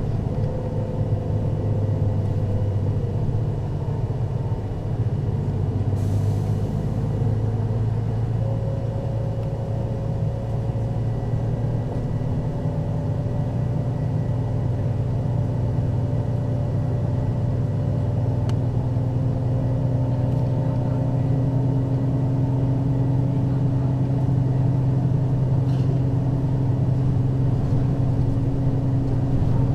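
Mercedes-Benz O 530 Citaro city bus running, its diesel engine holding a steady note that climbs slowly through the middle. There is a brief hiss of air about six seconds in.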